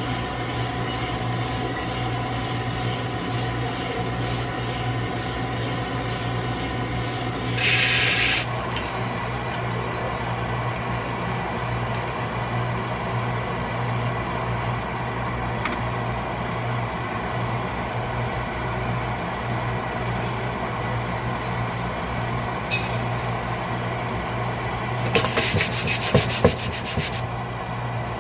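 Drum coffee roaster running steadily, its motor humming while the coffee beans rattle and scrape inside. A short burst of hiss comes about eight seconds in, and a spell of clattering knocks comes near the end.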